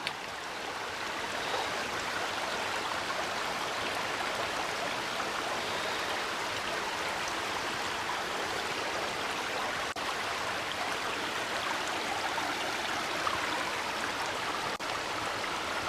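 A small river running, a steady rush of flowing water.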